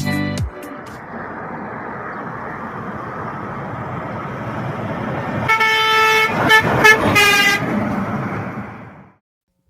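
Truck horn sounding three short blasts over steady road and engine noise that slowly grows louder, fading out just before the end.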